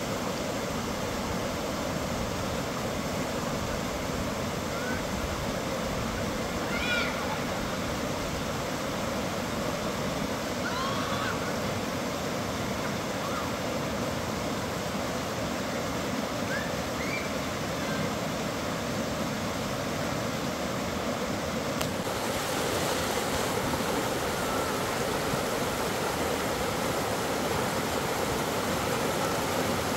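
Steady rushing of a stream's running water, with a few short rising bird chirps in the first half.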